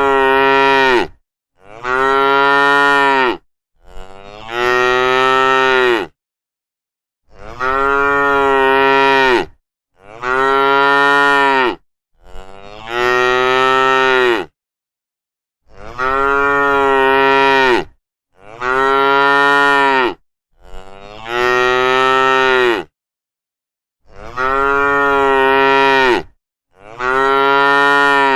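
Cows mooing: a series of about eleven long, steady-pitched moos of around two seconds each, one after another with short silent gaps between them.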